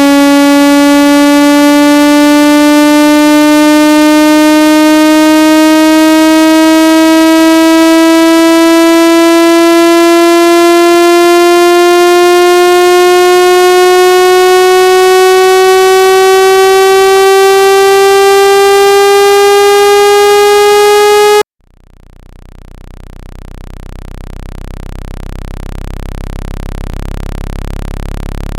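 Synthesized water-ejection tone for clearing water from a phone speaker: a loud buzzy tone gliding slowly upward in pitch, which cuts off suddenly about 21 seconds in. A low, deep tone then fades in and grows louder toward the end.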